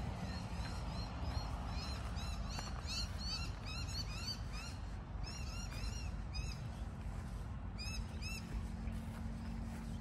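Birds calling: quick runs of short, arched chirps, several a second, starting about two seconds in, then a pause and a last brief run about eight seconds in, over a steady low rumble.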